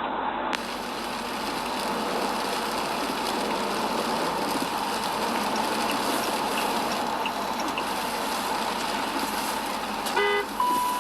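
Steady, even rush of road and traffic noise from a moving vehicle. Near the end comes a short horn-like honk, followed by a brief single-pitched beep.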